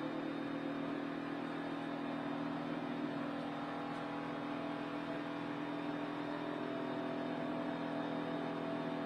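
NASCAR Cup stock car's V8 engine running steadily at a fairly constant pitch, heard from inside the car.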